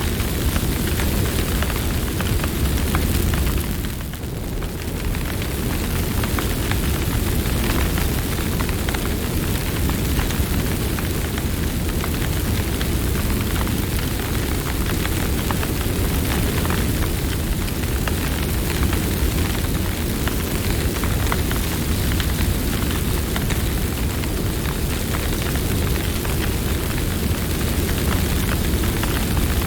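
Campfire burning steadily, with a dense continuous crackle over a low rumble of the flames; the level dips briefly about four seconds in.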